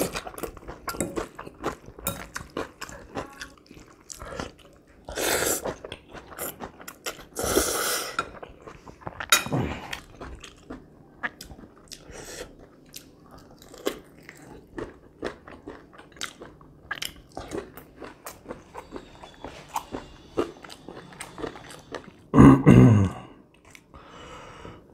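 Close-miked chewing and biting of pan-fried chicken tail pieces: a run of wet, clicky mouth sounds with some crunch. Two longer noisy stretches come about five and eight seconds in, and a short loud burst comes near the end.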